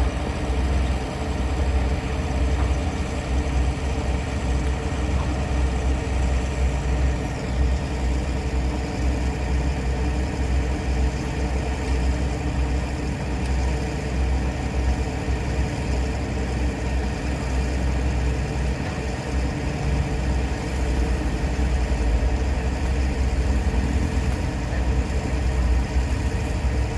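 A steady low engine-like rumble, like a motor idling, with no change in pitch.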